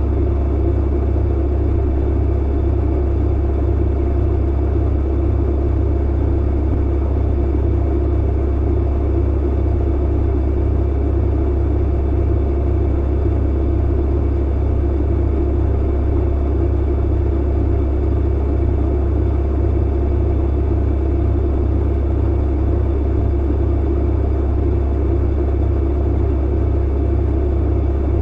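Clothes dryer running: a steady, unchanging low rumble and hum.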